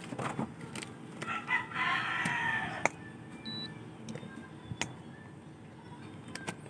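A rooster crowing once, a wavering call of about a second and a half that drops in pitch at the end, with a few sharp clicks around it.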